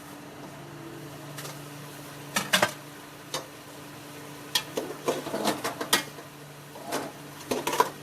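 Irregular clinks and scrapes of a cooking utensil against a pot while a dish is cooked, over a steady low hum.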